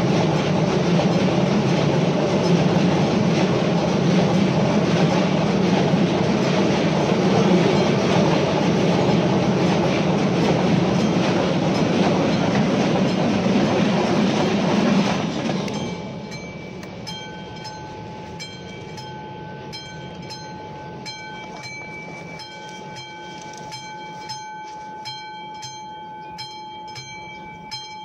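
ČD Cargo freight train of car-transporter and stake wagons rolling through a level crossing, its wheels clattering over the rails. About fifteen seconds in, the last wagon passes and the train noise drops away, leaving the crossing's classic warning bell ringing in a steady run of strikes.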